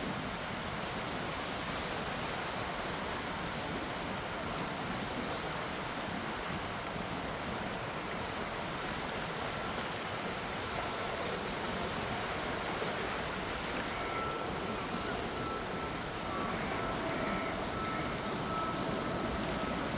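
Gentle sea waves washing, an even, unbroken hiss of water. A faint thin steady tone comes in about two-thirds of the way through.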